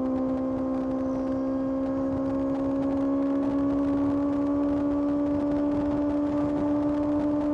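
Kawasaki ZX-6R's 636 cc inline-four engine running hard and steady on the move, its note climbing slowly as the bike pulls in gear.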